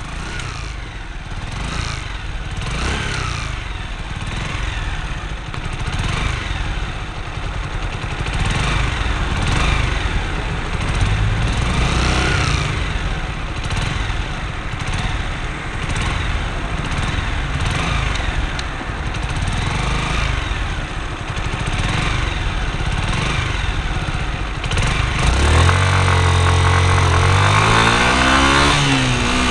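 Motorcycle engine running under way, mixed with wind rush on a camera cable-tied to the bike, the pitch rising and falling with the revs. About 26 seconds in, the engine gets louder and its note climbs as the bike accelerates.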